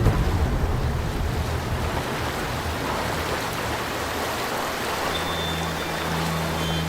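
River water splashing and rushing in a steady noisy wash. A low steady tone joins it about five seconds in.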